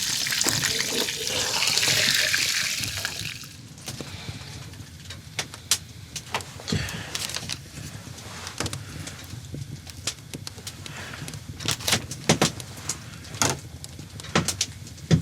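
Liquid pouring with a loud rushing gush, stopping suddenly about three and a half seconds in; after that, scattered sharp clicks and knocks.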